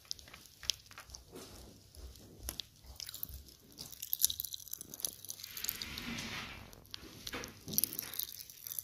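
Crunchy candy being bitten and chewed: irregular crisp crunches, with a denser crackling stretch about six seconds in.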